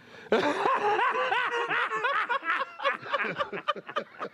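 Someone snickering: a quick run of short rising-and-falling laughs, fading toward the end.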